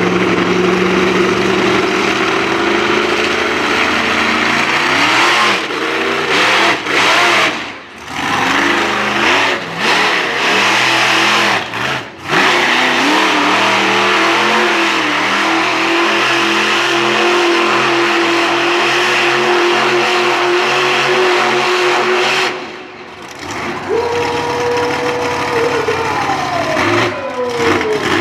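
Monster truck engine revving hard, dropping off briefly several times and surging back up. A falling whine comes near the end.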